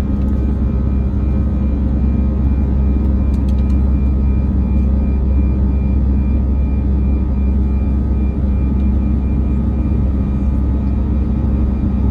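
Steady drone of an Airbus A319's jet engines: a loud low rumble with several constant tones over it, holding level without rising or fading.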